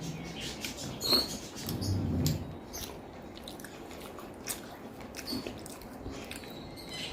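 Close-miked chewing and wet mouth clicks of someone eating rice and chicken curry, with a louder click about a second in and a brief low sound about two seconds in.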